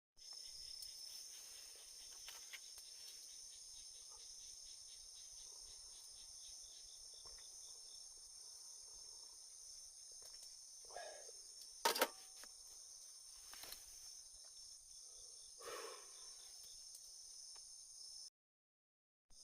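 Autumn insects such as crickets chirping steadily in a high-pitched chorus, with a few scattered clicks and one sharp snap about twelve seconds in. The sound cuts out for about a second near the end.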